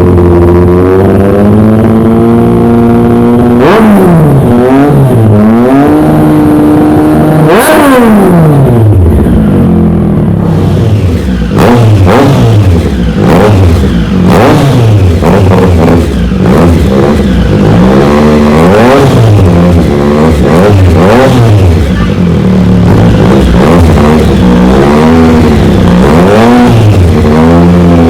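Triumph Street Triple RS three-cylinder engine through a Spark aftermarket exhaust, idling and then revved with throttle blips, its pitch sweeping up and dropping back. From about a third of the way in the blips come quickly, roughly one a second.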